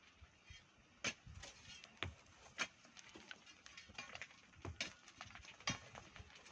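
Scattered sharp knocks and scrapes, about half a dozen at uneven intervals, from hand tools striking sand and stone in manual sand mining.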